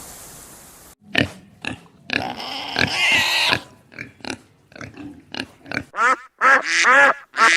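Pigs grunting and squealing in a run of short calls, with louder, longer squeals near the end. A steady hiss plays for the first second and then cuts off.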